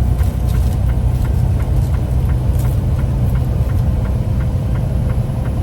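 A vehicle's engine running steadily, heard from inside the cab as a low, even rumble, with light ticks about three times a second.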